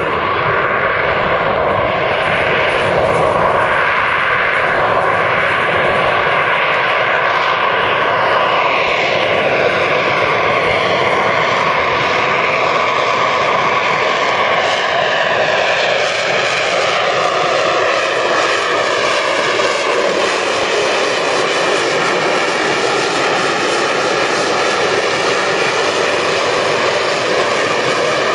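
Harrier jump jet hovering, its Rolls-Royce Pegasus vectored-thrust turbofan running at high power: a steady, very loud jet noise whose tone slowly wavers and shifts.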